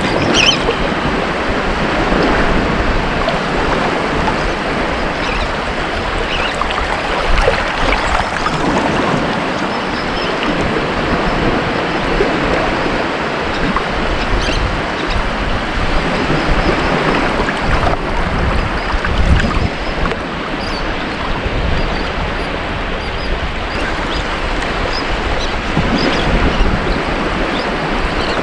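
Ocean waves washing onto a beach, a continuous rushing surf that swells and eases gently, with wind noise mixed in.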